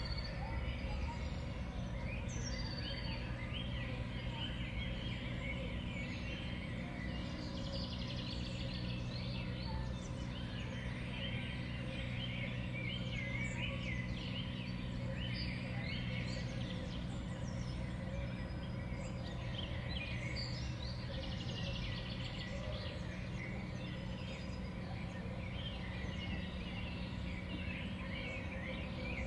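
Many small songbirds at a winter sunflower-seed feeder chirping and calling without pause, over a steady low hum.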